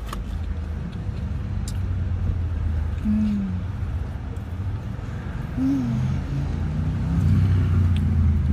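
Steady low rumble of a car's idling engine heard inside the parked car's cabin, with a few faint clicks and a couple of brief voice sounds.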